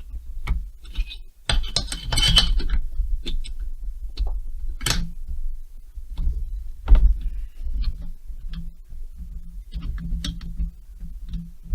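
Hand tools and metal chainsaw parts being handled: scattered clicks and clinks, a short scrape about a second and a half in, and a louder knock about seven seconds in.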